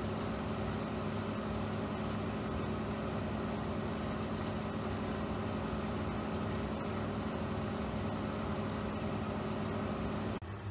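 A steady machine hum with a low drone and an even hiss over it, which drops away suddenly near the end.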